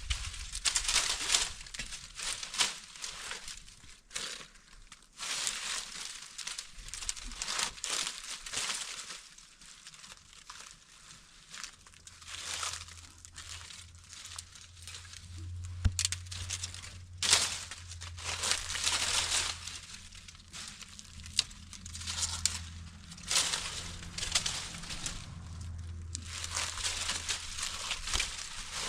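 Repeated crinkling and rustling, in uneven bursts, as of material being handled. A low steady hum comes in about midway and mostly holds.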